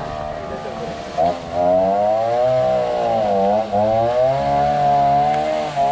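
Two-stroke chainsaw revved up to high speed about a second in after running slower, its pitch wavering and dipping briefly under load as it cuts through a fallen tree.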